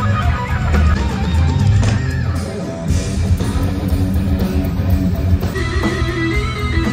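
Rock band playing live, with electric guitar over a heavy bass and drum low end; a held high note comes in near the end.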